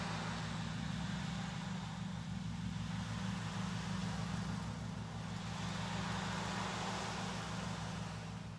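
Steady low sound-bath drone holding several low tones, with a soft hiss that slowly swells and fades over it.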